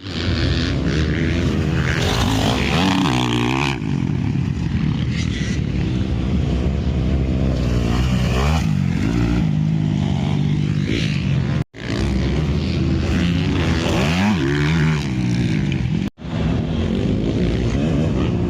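Several motocross bikes riding the track, their engines revving up and down again and again as they accelerate and shift. The sound breaks off sharply twice for an instant, about two thirds of the way in and again near the end.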